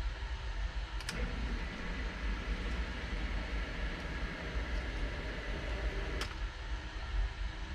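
Replacement 1/3 horsepower sump pump switching on with a click about a second in, running for about five seconds, then shutting off with another click, over a steady low hum. There is no bang from the piping at shutdown.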